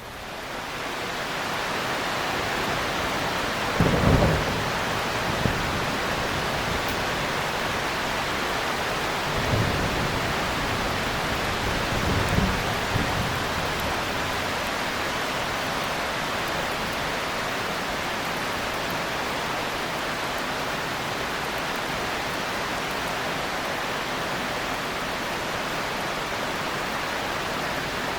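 Steady heavy rain that fades in over the first second or two, with a few short, low rumbles of distant thunder about 4, 10 and 12 seconds in.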